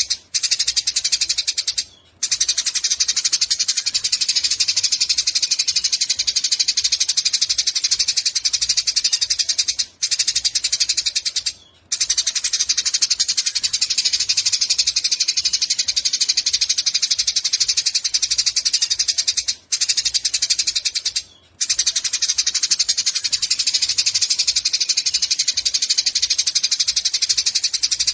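Eurasian tree sparrow chattering in a fast, unbroken stream of high chirps, with a few short pauses.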